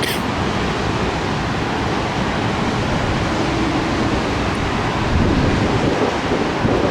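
Thunderstorm wind gusts and rain making a steady rush, with wind buffeting the microphone; it grows a little louder about five seconds in.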